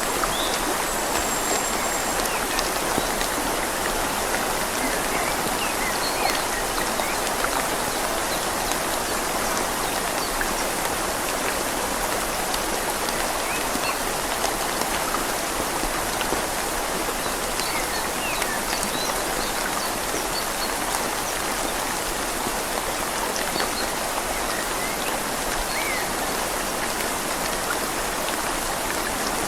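Steady rain falling on leaves over a flowing river: an even wash of water noise with scattered drops.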